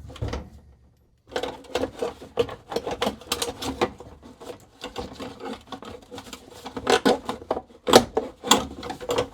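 Socket ratchet wrench clicking rapidly as bolts under the dashboard are turned out, starting about a second in, with a few louder knocks of metal near the end.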